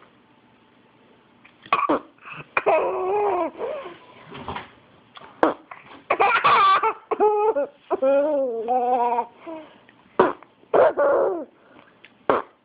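A mother making silly vocal noises, some sliding in pitch and one a quick rapid warble, with a baby laughing in short bursts between them.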